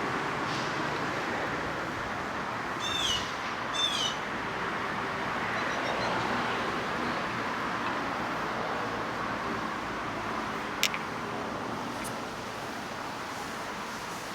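Steady outdoor traffic noise, with a bird giving two short falling calls about three and four seconds in and a single sharp click near eleven seconds.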